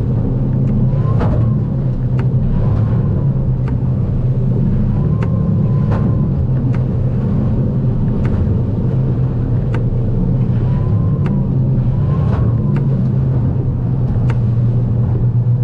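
Outboard-powered aluminium boat running steadily through rough water, the engine giving an even hum. Sharp short ticks recur roughly once a second over it.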